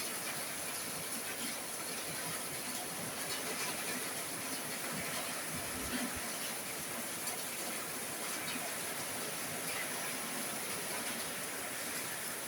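Heavy rain falling steadily on a roof, an even hiss of drops, with one dull thump about halfway through.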